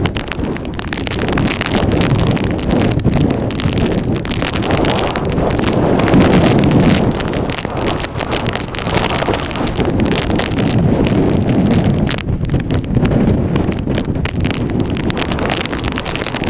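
Strong wind buffeting the microphone: a low rumbling rush whose loudness rises and falls with the gusts.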